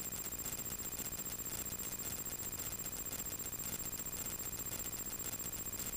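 Faint, steady light-aircraft cabin drone picked up through the headset intercom, with a thin high-pitched electrical whine and a fast, even flutter.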